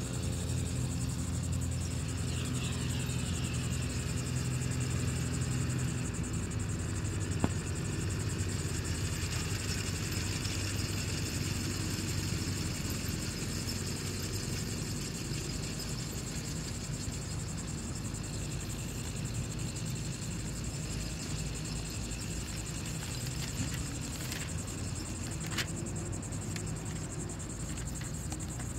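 Steady chirring of insects over a continuous low rumble, with a single sharp click about seven seconds in.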